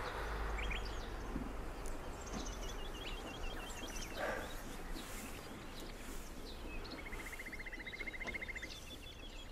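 Songbirds calling over a steady background hiss and low rumble. There is a run of short repeated chirps about two and a half seconds in, and a fast, even trill at about seven seconds.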